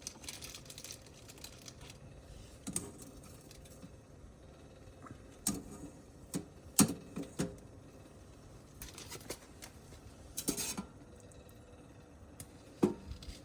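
Scattered light clicks and knocks of a frying pan and utensils being handled, with the sharpest knocks about halfway through and near the end.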